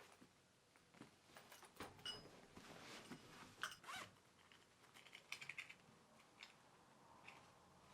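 Faint handling sounds of small objects: scattered light clicks, taps and rustles, with a quick run of ticks about five seconds in.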